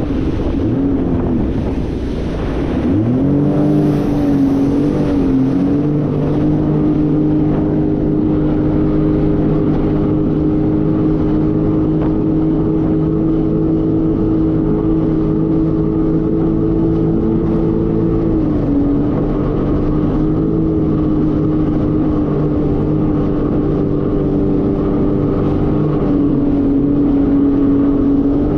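Jet ski engine running at speed: the pitch drops and climbs back as the throttle is eased off and opened again a few seconds in, then holds a steady high drone with a brief dip near the end.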